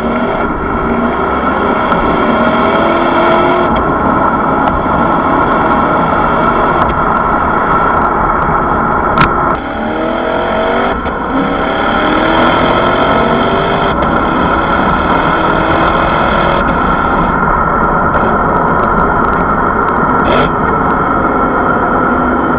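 Lexus GS F's 5.0-litre V8 running hard through a Suruga Speed PFS Loop Sound aftermarket muffler. Its pitch climbs in several rising sweeps, dropping back between them, over a steady rushing noise.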